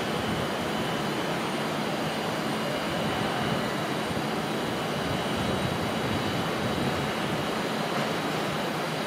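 A Transport for Wales Class 197 diesel multiple unit running slowly toward the platform: a steady rumbling noise with a faint steady engine hum in it.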